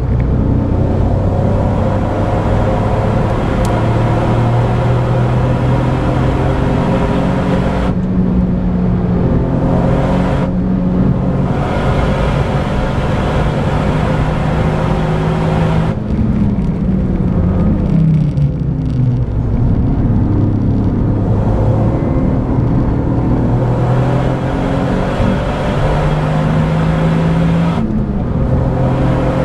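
Toyota GR Yaris's turbocharged 1.6-litre three-cylinder engine running hard on track, heard from inside the car. Its pitch holds, then jumps in steps, and about halfway through it falls away and climbs again.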